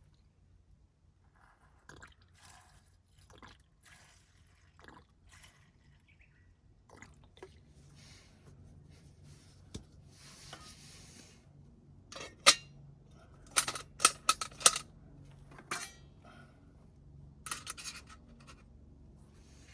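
Camp gear being handled: scattered light knocks and rustles, then a cluster of sharp metallic clinks about twelve to fifteen seconds in, with a soft hiss for a few seconds before them.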